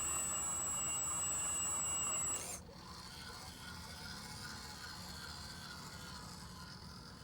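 MAGOM HRC 330D radio-controlled hydraulic excavator running. A high, steady whine lasts about the first two and a half seconds, then drops to a quieter, lower hum and hiss.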